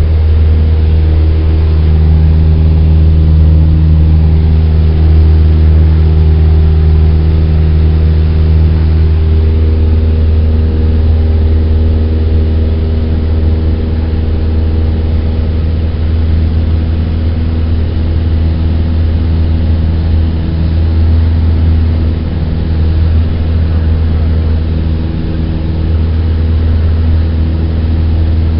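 Cessna 172's four-cylinder Lycoming piston engine and propeller running steadily, a loud low drone. Its tone shifts slightly about nine seconds in.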